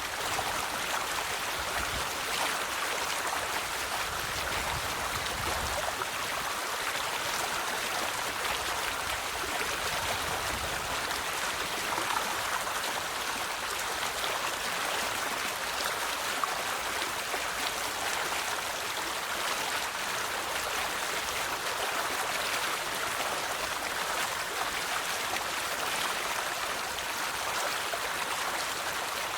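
River water flowing and babbling steadily over stones, an even rushing wash with fine splashes and no letup.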